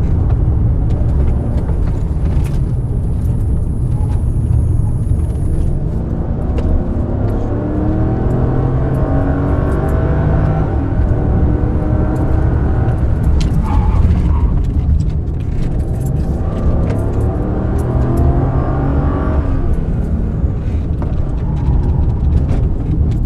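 A 2004 Mercedes-Benz SL500's V8 engine pulling hard at race pace, its pitch climbing again and again as it goes up through the revs, with a short dip about fourteen seconds in.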